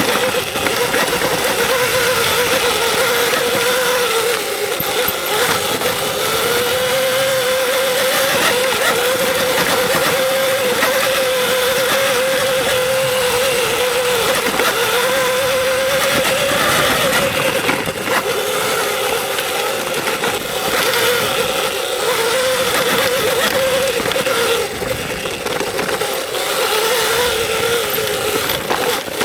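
Electric dirt bike riding a trail: the motor's whine wavers up and down in pitch with the throttle, over a steady rush of wind and trail noise.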